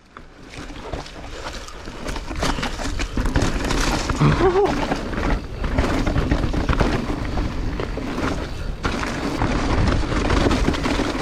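Mountain bike clattering down a rough, rocky downhill trail: tyres rolling over dirt and rock, with a steady run of rattles and knocks from the frame and chain, and wind rushing over the camera microphone.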